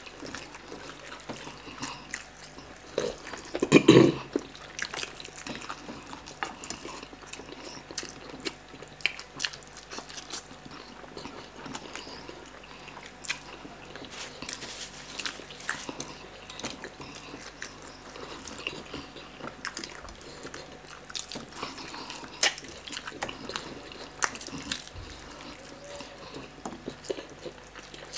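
Eating sounds of two people devouring roast chicken by hand: wet chewing and lip-smacking, with meat being torn apart and many small clicks. There is one louder brief sound about four seconds in.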